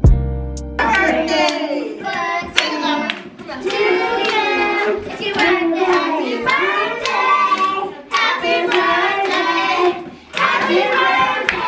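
Voices singing with hand clapping, the claps coming at a fairly even beat. A guitar music bed cuts off just under a second in.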